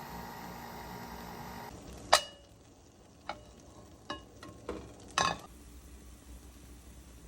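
A steady hum, then about two seconds in a handful of sharp clinks, each with a short ring, like hard objects being set down or knocked together.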